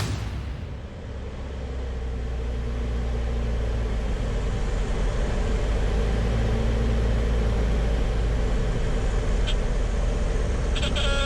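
Lycoming O-360 engine and propeller of a Grumman AA-5B Tiger giving a steady low drone on final approach, growing louder over the first few seconds.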